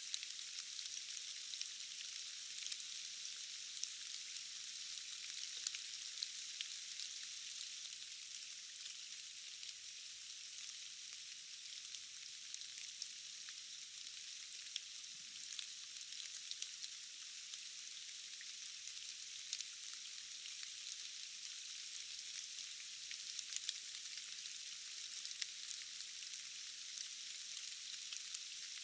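Steady rain: an even, high hiss with many small drop ticks scattered through it, and almost no low sound.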